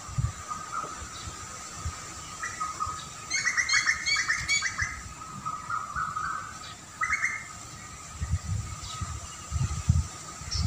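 Wild birds chirping: a quick run of repeated chirps about three seconds in, then a shorter call a few seconds later, over a steady high background tone. Low rumbles, like wind on the microphone, come near the start and again near the end.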